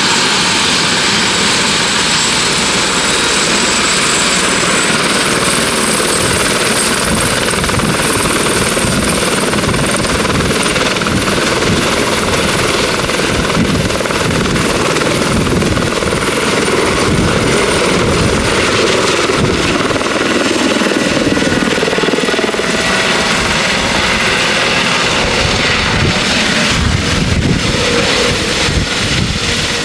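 Turbine helicopter running at close range: a high turbine whine over a pulsing rotor chop. The whine rises in pitch about five seconds in and then holds steady.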